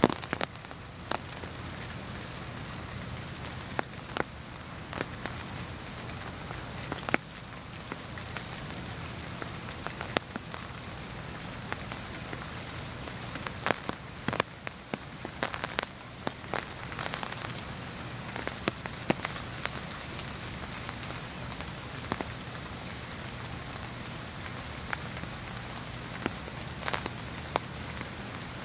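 Steady rain falling, a continuous hiss with frequent sharp, irregular taps of single drops landing close by.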